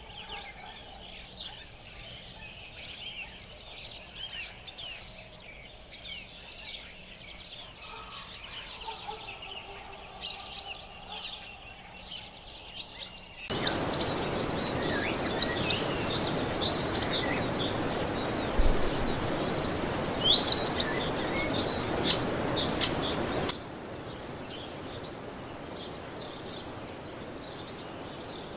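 Rainforest ambience of many small birds chirping and calling. About halfway through it changes suddenly to a louder steady hiss with louder, sharper chirps, then near the end to a quieter hiss with faint chirps.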